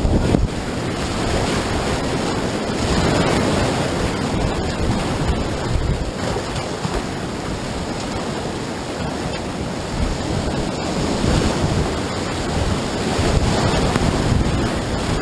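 Whitewater rapids rushing and splashing steadily, with wind buffeting the microphone.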